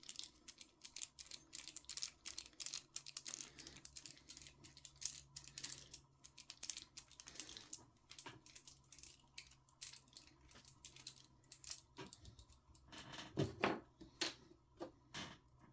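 Small clicks, ticks and scrapes of a hex driver and small metal and plastic parts being handled as a ball stud is unscrewed from an RC car's steering bell crank. The clicks come irregularly, several a second, with a louder burst of clatter about 13 seconds in.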